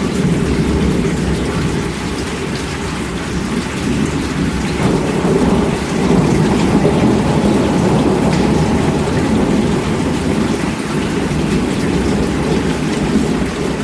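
Steady heavy rain with a low rumble of thunder beneath it, swelling a little about five seconds in.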